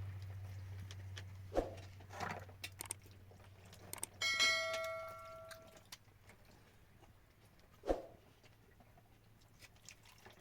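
A metal object is struck once about four seconds in and rings for about a second and a half, among a few scattered knocks. A low steady hum fades out over the first half.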